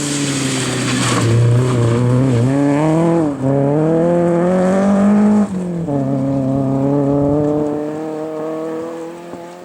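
Rally car engine under hard acceleration, its pitch climbing with the revs and dropping sharply twice as the driver shifts or lifts off. It then runs at steadier revs and fades as the car drives away.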